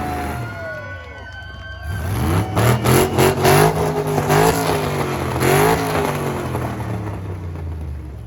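Engine revving hard. Its pitch climbs about two seconds in and is held high with rapid pulsing and a couple of dips, then eases off toward the end.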